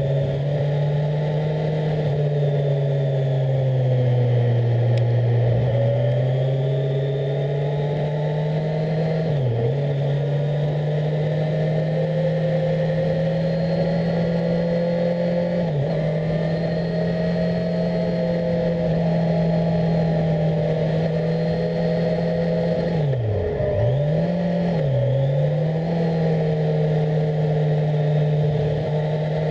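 Kawasaki Z1000SX's 1043 cc inline-four engine under way at steady mid revs. Its note sags for a few seconds near the start, then climbs again. It dips briefly and recovers a few times later on, twice in quick succession near the end.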